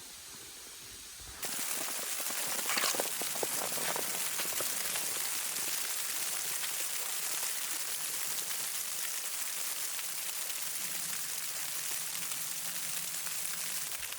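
Falling snow pattering steadily on surfaces, a dense hiss that starts abruptly about a second and a half in, with a few sharper ticks soon after.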